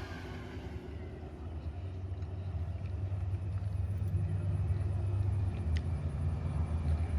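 A car engine rumbling at low revs, growing slowly louder.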